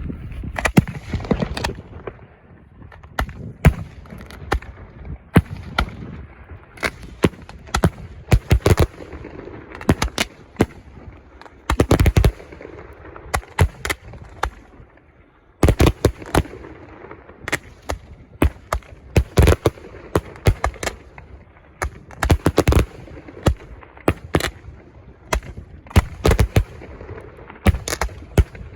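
Fireworks going off: a long run of sharp bangs and crackles, many in quick clusters, with a short lull about halfway through.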